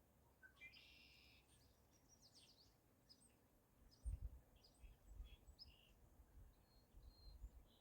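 Wild birds chirping faintly, a run of short high calls and quick trills. From about four seconds in, irregular low rumbling bumps come and go.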